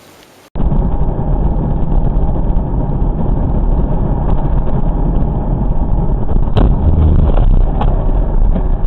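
Loud, steady rumble of a car driving, with engine and road noise, starting abruptly about half a second in. A few sharp clicks come in the second half.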